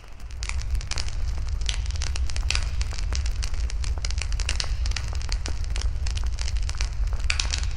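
Wood fire burning, with dense irregular crackles and pops over a steady low rumble. The level dips briefly at the very start, then the crackling carries on.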